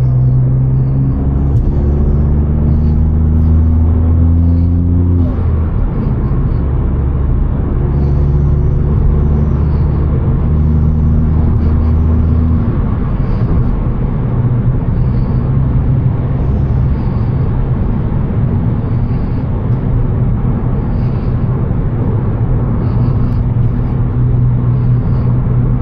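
Car engine running under way, its pitch rising and then dropping back about five seconds in, like a gear change, over steady road rumble.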